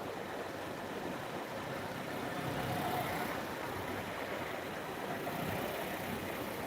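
Motorcycle engine running under a steady rushing noise of a ride, with no clear revs or changes.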